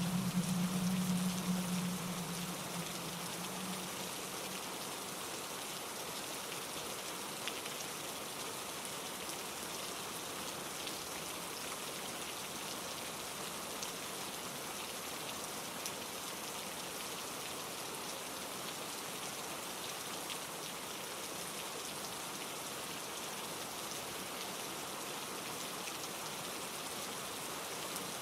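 Steady rain falling through trees. A low rumble at the start fades away over the first few seconds.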